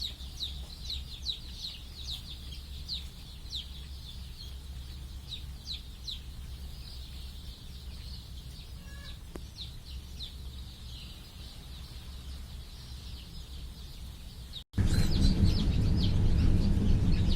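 A brood of young Kadaknath chicks peeping: many short, high cheeps, several a second. Near the end the sound cuts abruptly and a loud low rumble comes in under the peeping.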